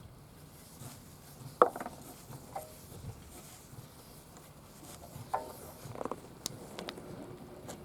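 A few scattered clinks and knocks from hands working on an old Gasuden two-stroke engine, with quiet stretches between; the engine is not yet running.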